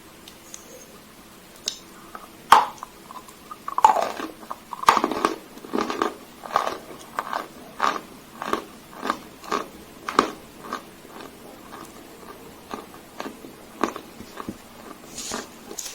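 Dry Sevryukovo chalk being bitten and chewed: one sharp crunching bite, then steady crunchy chewing at about two chews a second that thins out near the end.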